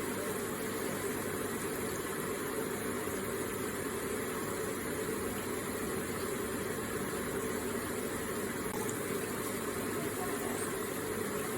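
Water from an electric water feature running steadily, an even, unbroken rush.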